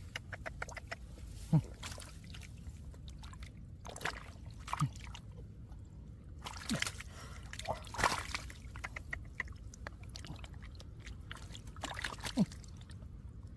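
Sloshing and splashing in shallow muddy water, with irregular wet slaps and splats as hands search the mud for catfish.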